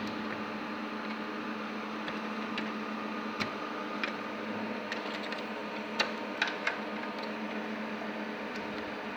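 Steady electrical or fan hum, with a few sharp clicks and taps of small hard parts being handled, the loudest about six seconds in.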